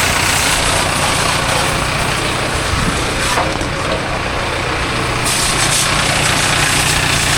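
Engine idling steadily under the hiss of a water jet spraying a machine during a wash, the hiss changing in strength as the spray moves.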